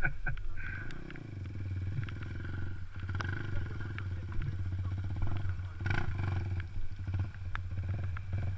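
Enduro motorcycle engine running at low revs, the note rising and falling as the throttle is worked, with a brief swell in revs about six seconds in.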